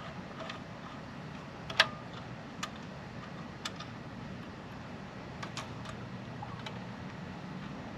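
Scattered sharp clicks and taps of hands and a tool working at the bandsaw's magnetic starter cover to pry it loose, one louder click about two seconds in, over a steady low hum.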